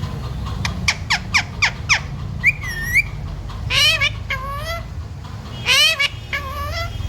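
Pet parrot calling: a quick run of about six falling whistled notes, then a wavering whistle and two pairs of loud, squawky wavering calls. A steady low hum runs underneath.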